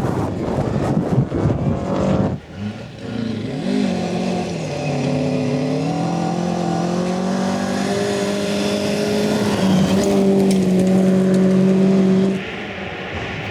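Rally car engine under hard acceleration. Its pitch climbs in steps through several gear changes, then holds at high revs. A loud, noisy rush fills the first two seconds, and the sound cuts off abruptly near the end.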